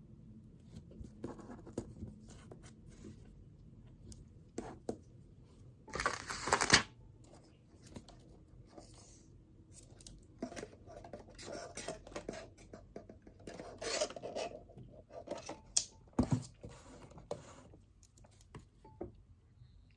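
Desk noises of someone studying: pen and paper scratching and rustling, with scattered small clicks and taps. A louder rustle lasting about a second comes about six seconds in.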